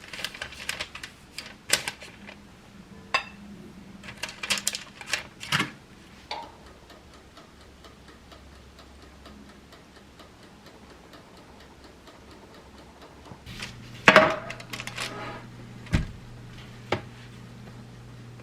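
Kitchen clatter: light clicks and knocks of utensils and dishes in a small room, in scattered bunches. The loudest clatter comes about fourteen seconds in. A low steady hum comes on just before it and keeps going.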